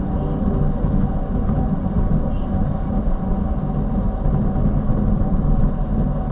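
Steady engine and road noise of a vehicle being driven, heard from the driver's seat: a continuous low drone.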